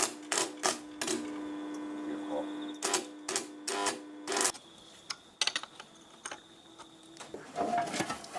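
Sharp metal clicks and knocks in two short runs, about three a second, over a steady hum that stops about four and a half seconds in.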